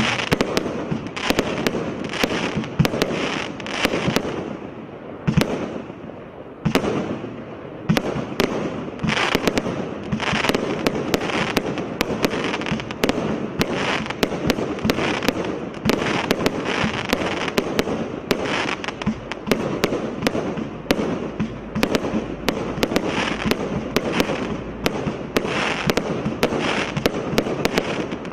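Absolute Fireworks' Twisted Twins firework going off in a dense, continuous run of rapid pops and crackles. There is a short lull about five to six seconds in.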